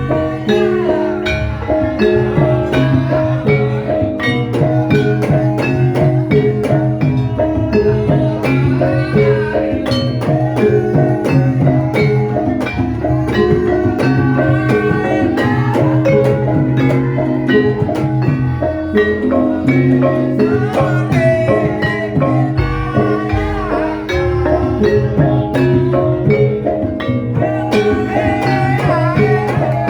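Javanese gamelan playing a gendhing: metallophones ring out steady, interlocking melodic patterns over deep sustained gong tones. A gliding melody line rises above the ensemble now and then.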